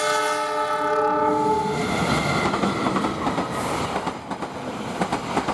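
A train's locomotive air horn sounds a long chord of several tones, cutting off a little under two seconds in. It is followed by the train passing close by with a steady rumble and the rapid clatter of wheels over rail joints.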